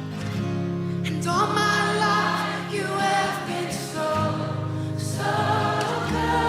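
Christian worship music sung by a group of voices over a sustained accompaniment, with the voices coming in about a second in.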